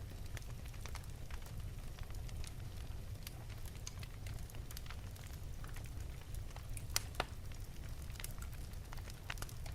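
Wood fire burning in an open fireplace: a steady low rumble of flame with scattered sharp crackles and pops, the loudest pair about seven seconds in.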